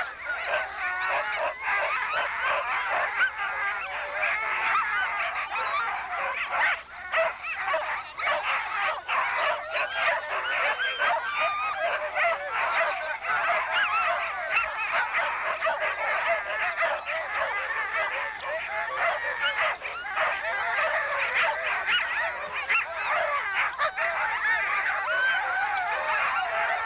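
Many sled dogs barking, yelping and howling at once in a continuous, overlapping din.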